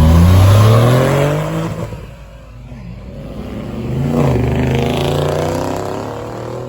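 A car engine revving hard and accelerating, its pitch climbing for about two seconds before fading; about four seconds in a second burst of hard acceleration rises and then fades away.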